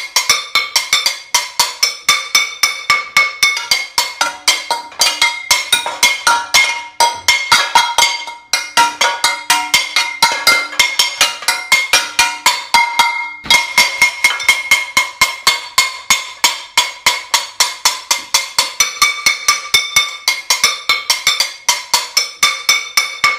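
A metal cooking pan being banged over and over: rapid ringing clangs, about four a second, with a couple of brief breaks.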